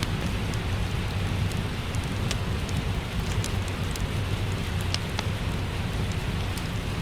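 Steady rain with a low rumble under it, mixed with a crackling fireplace; sharp little crackles and ticks pop out here and there.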